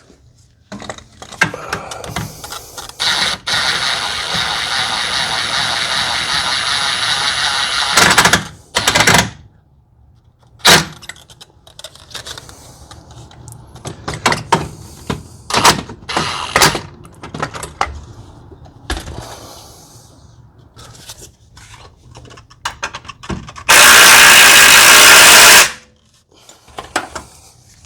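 A power tool runs steadily for about five seconds, then a string of separate metallic clicks and clanks follows. Near the end comes a louder two-second run of the power tool.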